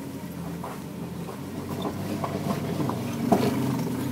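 A 4x4's engine running steadily in four-low, first gear as it climbs a steep road, with scattered knocks and clicks as it rolls over loose rock; the engine gets a little louder about three seconds in.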